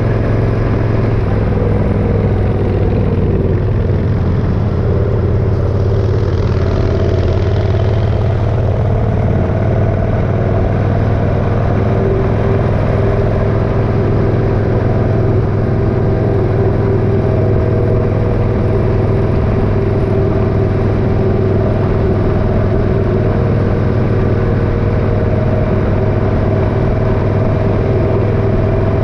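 Motorcycle engine running steadily on the road with a constant rush of road and wind noise; its pitch shifts about six seconds in.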